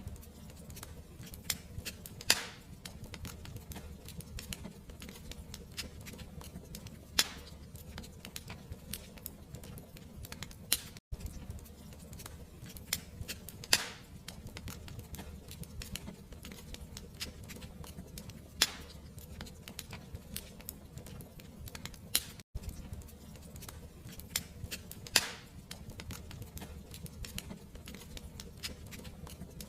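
Fireplace fire crackling: a steady low rumble of flames under a constant patter of small crackles, with a sharper pop every four to six seconds. The sound breaks off for an instant twice.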